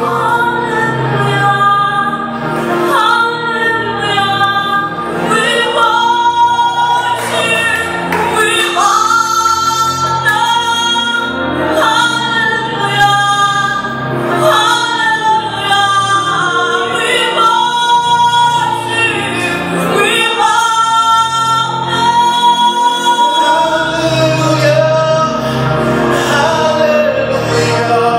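Gospel song sung by a church choir, female voices leading, in long held notes over steady low instrumental backing.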